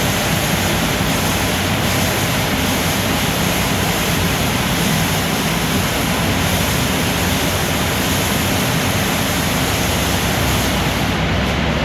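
Steady rushing, hissing noise inside a Ceccato car wash tunnel, water spraying over the car with the wash machinery running. Just before the end the hiss fades and a lower rumble takes over.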